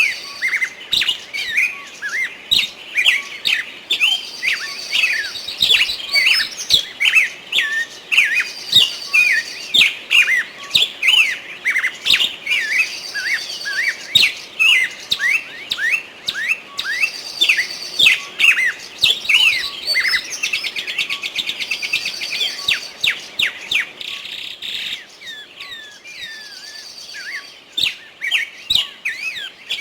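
Small birds chirping and twittering in quick, overlapping chirps that slide up and down in pitch. A higher held whistle comes back every few seconds, and there is a buzzy trill a little past two-thirds of the way through.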